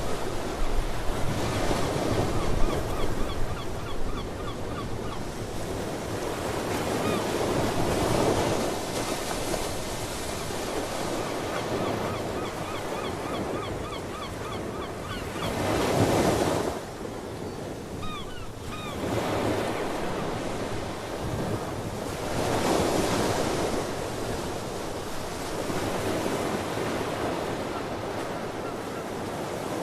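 Ocean surf washing in and swelling in repeated surges. Seabirds call over it in quick runs of short chirps through much of the first half, and briefly again a little after the middle.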